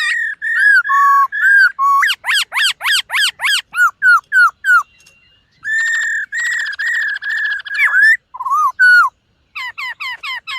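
White-cheeked laughingthrush singing a varied song of loud, clear whistled notes: quick downslurred phrases, a long warbling note a little past the middle, and a brief pause about halfway through.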